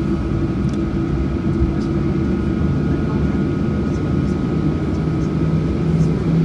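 Cabin noise of a Boeing 737-800 with its CFM56 turbofan engines running: a steady low noise carrying a few steady humming tones, one of them growing stronger near the end.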